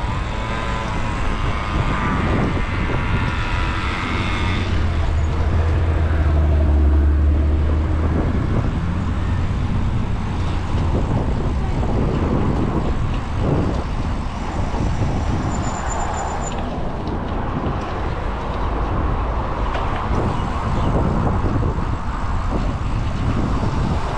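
Road traffic passing. A rising whine comes in the first few seconds, then a heavy vehicle's low rumble swells and fades between about 4 and 9 seconds in, over steady tyre and engine noise.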